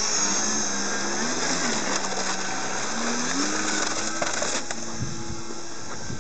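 Radio-controlled plane's motor and propeller running with a whine over steady hiss, its pitch rising and falling several times with the throttle.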